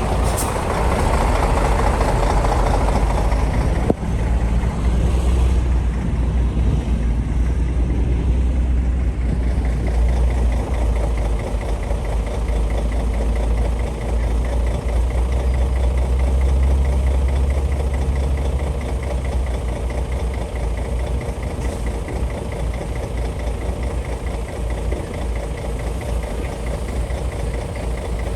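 Shantui bulldozer's diesel engine running under load with a heavy, steady low drone. It pulls harder for the first part and eases off somewhat after about two-thirds of the way through.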